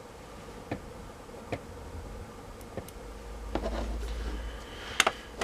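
Light handling sounds: a few short clicks and taps, with a low rumble of movement in the middle, over a faint steady hum.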